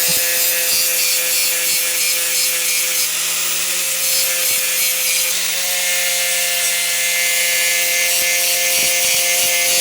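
Angle grinder running steadily, grinding mill scale off steel before welding, a steady motor whine under a harsh grinding hiss.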